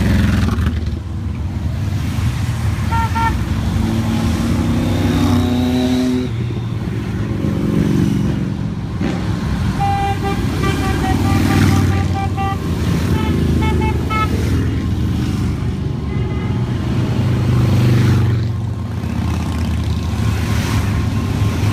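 A steady stream of motorcycles riding past in a large group, engines rumbling continuously, with horns tooting in short repeated beeps through the middle.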